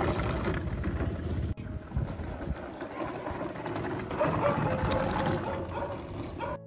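Small wooden two-wheeled cart rattling and crunching over gravel as a goat pulls it at a run, with a brief break about a second and a half in.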